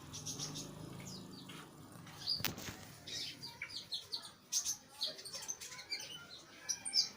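Small birds chirping: many short, high-pitched calls in quick succession, with a single sharp click about two and a half seconds in.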